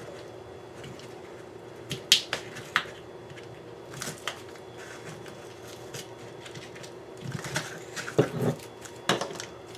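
Scattered sharp clicks and taps from a firework canister shell being handled and taken apart by hand, over a steady low hum.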